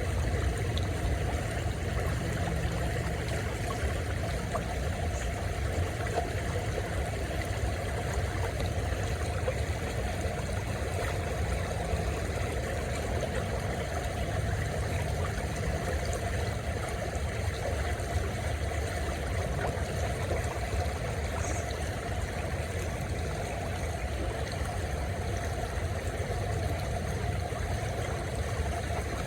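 River water flowing in a steady rush, with a low rumble underneath.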